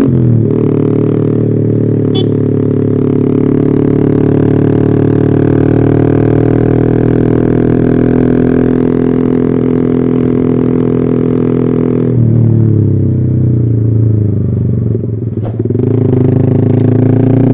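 Yamaha R15 V3's 155 cc single-cylinder engine running through a cloned Arrow racing exhaust, holding a steady note. About twelve seconds in the note shifts, dips briefly around fifteen seconds, then climbs again.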